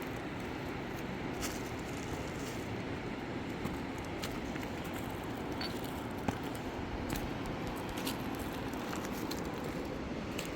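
Steady rushing of a river, with scattered sharp clicks and rustles over it.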